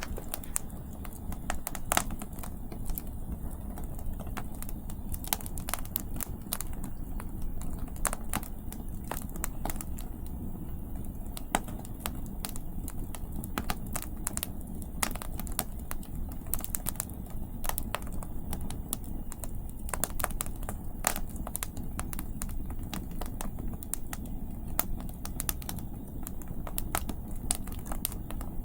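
Wood campfire crackling, with irregular sharp pops and snaps from the burning firewood, over a steady low rumble of wind.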